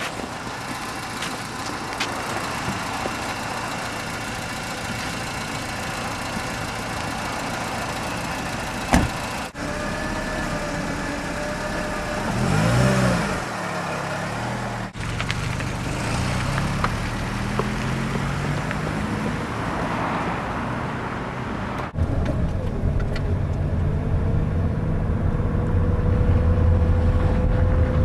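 A car engine running across several cuts. It revs up about twelve seconds in, then runs louder and steadily over the last six seconds.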